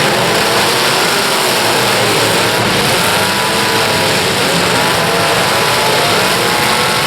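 Several demolition derby cars' engines running and revving together in a dense, steady din, their pitches wavering up and down, with no single crash standing out.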